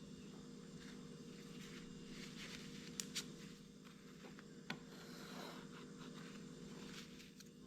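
Faint scraping and rubbing of a scrap piece of wood against a small glued wooden model, clearing away excess glue, with three light clicks: two close together about three seconds in and one near five seconds. A steady low hum runs underneath.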